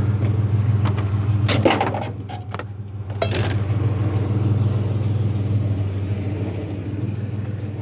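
Pickup truck engine idling steadily, with a few short knocks about a second and a half in and again near three seconds.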